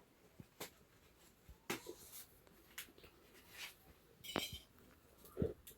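Faint, scattered clicks and small knocks of handling, with a short rustle about four seconds in and a soft knock near the end.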